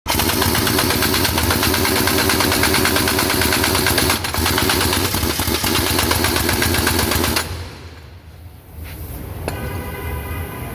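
Pneumatic impact wrench hammering at a truck wheel's lug nuts: a loud, rapid rattle for about seven seconds that stops abruptly. A quieter, steady engine hum follows near the end.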